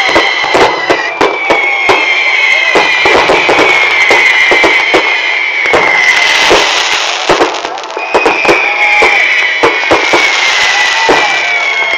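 Fireworks going off: a dense string of sharp bangs and crackles, with two long whistles that slowly fall in pitch and a loud hiss between them about six seconds in.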